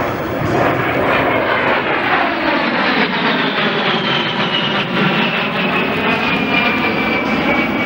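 Heritage-flight formation of a P-51 Mustang and an A-10 passing low, engine noise with a high whine that slides steadily down in pitch as the aircraft go by.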